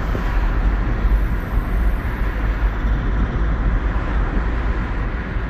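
Steady road and engine rumble inside the cabin of a six-cylinder ute driving along at town speed.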